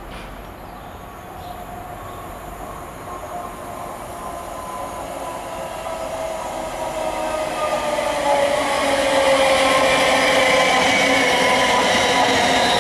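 A Siemens Desiro electric multiple unit approaches and runs in along the platform, growing steadily louder until about two-thirds of the way through and then holding. Its whine of several tones slowly falls in pitch, over a running rumble from the wheels.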